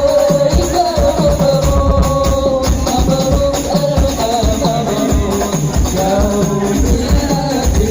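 Habsyi ensemble playing sholawat: rebana frame drums beat a steady, repeating rhythm with jingling, under a held, wavering melody line.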